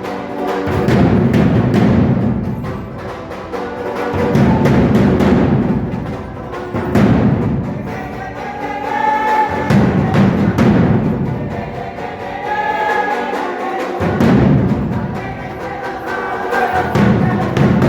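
Drums played for a Mexican ritual 'danza' dance, beaten in a fast, steady rhythm with deep booming swells every few seconds. A higher held tone sounds briefly over the drumming twice in the middle.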